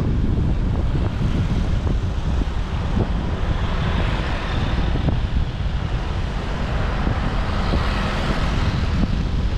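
Steady rumble of a motorbike ride through city traffic: engine and road noise mixed with wind buffeting the microphone.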